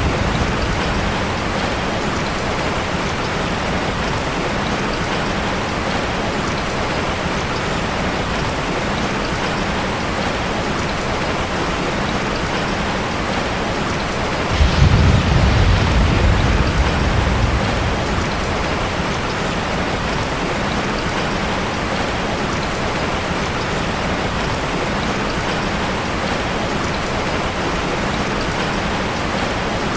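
Heavy rain falling steadily, a dense even hiss of drops. About halfway through a low rumble of thunder swells for roughly three seconds and fades.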